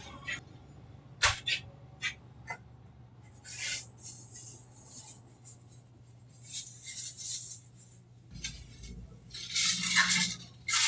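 Food-truck kitchen prep sounds: a few sharp clicks and clinks of utensils early, then three short noisy scraping bursts, over a steady low hum.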